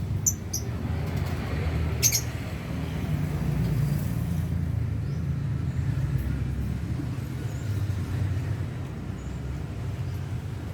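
A steady low rumble throughout, with a few short, sharp lovebird chirps near the start and one more about two seconds in.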